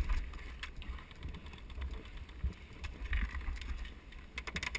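Low rumble of wind and handling noise on the microphone, with scattered sharp clicks and a quick run of clicks near the end.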